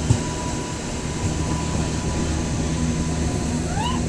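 Train running with a steady low rumble and a faint steady whine. Near the end a short rising-and-falling call cuts in.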